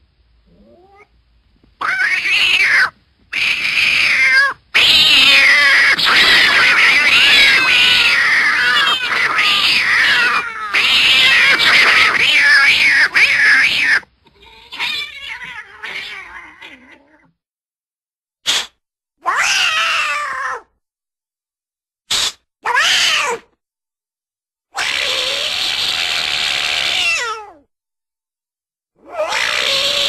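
A string of cat-like meows and yowls, played as separate sound effects. There is a long stretch of overlapping wailing calls in the first half, then short single calls separated by silences.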